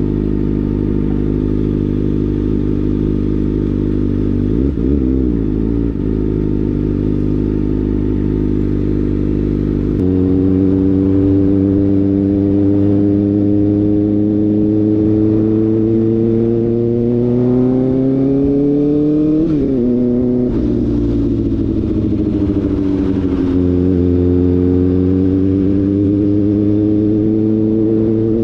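Kawasaki ZX-4RR's inline-four engine running through an SC-Project slip-on exhaust. It holds a steady note for about ten seconds, then rises slowly in pitch as the bike accelerates. Roughly two-thirds of the way through the pitch drops sharply, eases down further, and settles into a steady note again.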